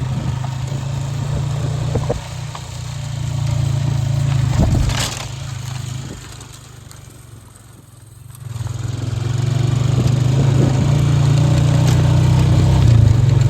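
Farm vehicle's engine running as it drives, easing off for a couple of seconds near the middle and then picking back up. A single knock about five seconds in.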